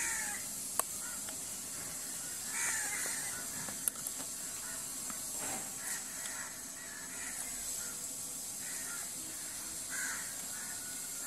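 Crows cawing now and then in the background over a steady hiss, with two sharp clicks, one about a second in and one about four seconds in.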